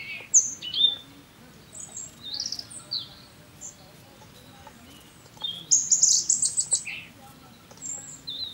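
Wild songbirds chirping and calling in short high notes, with a rapid high trill a little past the middle that is the loudest part.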